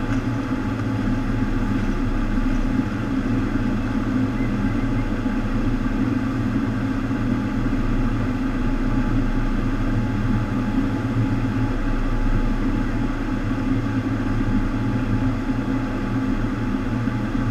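Steady rush of water from a FlowRider sheet-wave surf machine, with a constant low hum from its pumps underneath.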